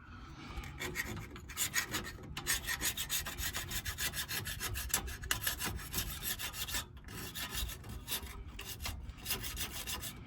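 Hand scraper scraping residue off the rear differential housing's cover mating surface in rapid repeated strokes.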